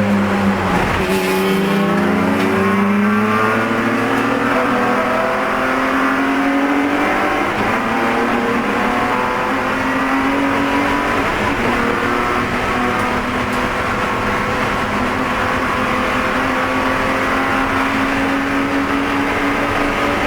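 BMW E46 race car's inline-six engine heard from inside the car under racing load. The engine note drops about a second in with a short click, climbs steadily as the car accelerates, then holds at high revs.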